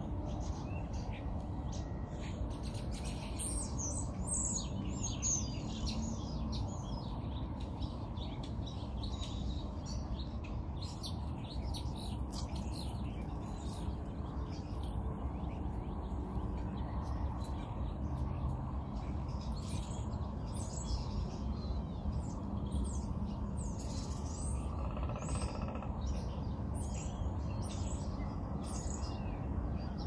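Small birds chirping with many short calls, busiest a few seconds in and again near the end, over a steady low rumble.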